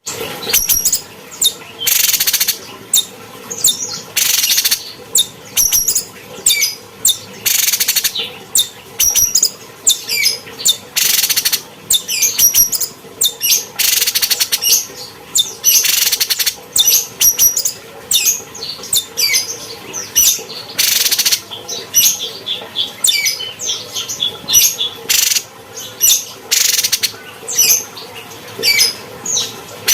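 Cucak cungkok songbird singing: a fast, varied stream of high chirps and whistles, broken every two to four seconds by a harsh, rasping call lasting about half a second.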